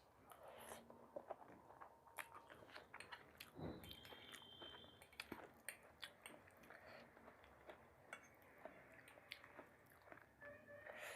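A person chewing and biting food, faint, with many small irregular mouth clicks.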